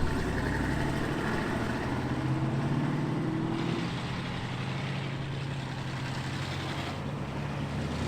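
Muscle car engine and exhaust running at low speed, a steady low note that rises slightly in pitch for a couple of seconds in the middle.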